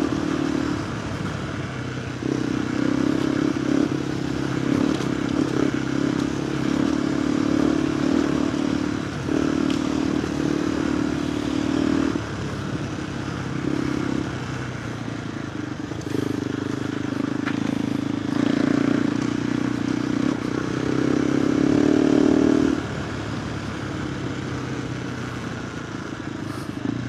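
KTM 390 Adventure R's single-cylinder engine running through a Norifumi Whoops stainless slip-on exhaust, the throttle opening and closing over and over in stretches of a few seconds, loudest a little past the middle.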